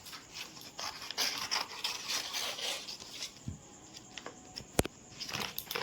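A delivery parcel being opened by hand: repeated tearing, rustling and scraping of its packaging, with a sharp click just before the end.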